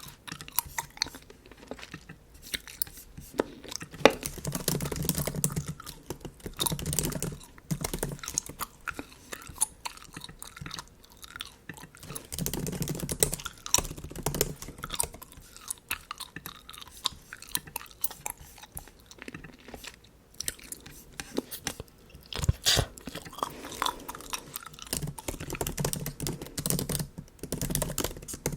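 Bubble gum being chewed close to the microphone, with many sharp clicks from the gum and mouth throughout and low muffled swells in several stretches.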